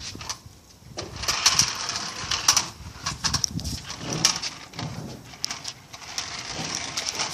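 Remote-control toy car running over a homemade track, its small motor whirring amid irregular clatter and knocks.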